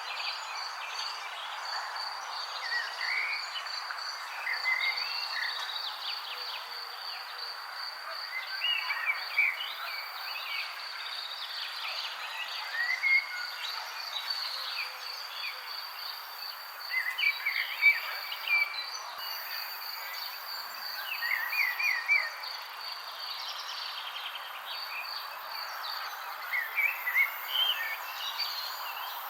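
Birds chirping in short, quick phrases every few seconds over a steady, high, pulsing insect trill and a constant background hiss.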